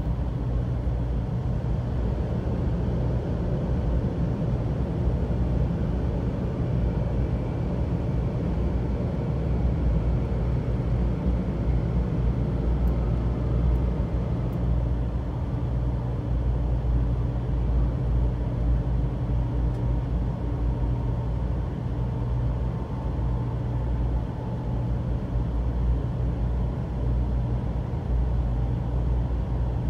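Cabin noise of a Shinkansen bullet train running at speed: a steady low rumble with an even rush of noise above it.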